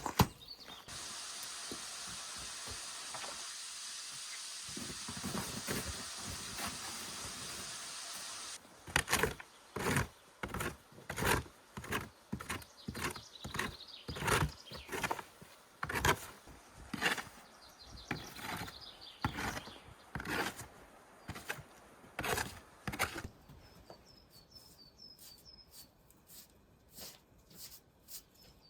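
A steady hiss for about eight seconds, then a long run of irregular knocks, one or two a second, and near the end faint bird chirps.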